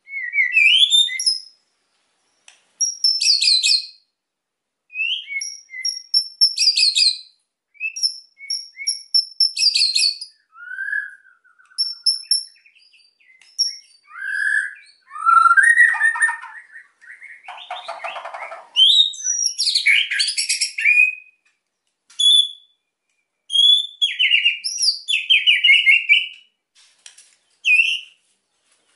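White-rumped shama (murai batu) singing in an agitated mood: short loud phrases of whistles and rapid rattling 'kretekan' notes, separated by brief pauses, with a harsher buzzy note about two-thirds of the way through.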